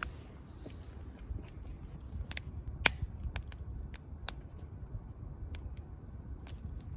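Wood campfire crackling: irregular sharp pops and ticks over a low steady rumble, with the loudest pop about three seconds in.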